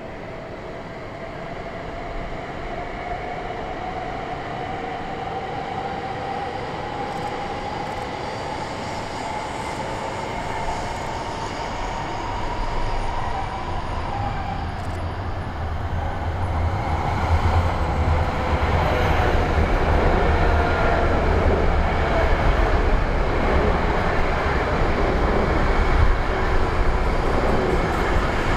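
Shinkansen E5 series train running through the station, its motor whine rising steadily in pitch as it accelerates. From about halfway in, a deep rumble of wheels and running noise builds up and keeps getting louder.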